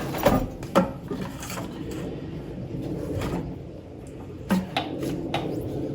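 Scattered clicks and knocks of objects being handled and set down, about half a dozen over a few seconds, over a low steady background hum.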